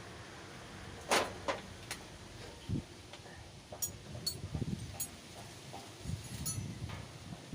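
Hand tools and metal engine parts being handled: a sharp click about a second in, then a string of small metallic clinks and rings with a few dull knocks, during valve work on a 4BA1 diesel engine.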